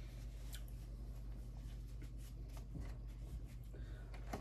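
Soft chewing and mouth sounds of someone eating an iced cupcake, with a few faint clicks, over a steady low hum.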